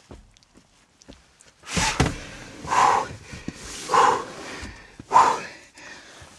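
A man breathing hard, four or five loud puffing exhalations about a second apart starting about two seconds in, from the strain of lifting a heavy battery.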